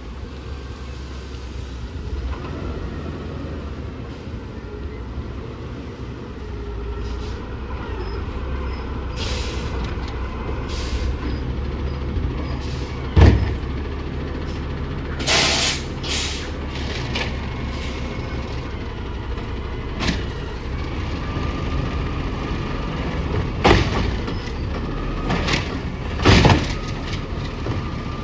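Garbage truck's diesel engine running steadily, broken by several short air hisses. A single loud thump comes about 13 seconds in.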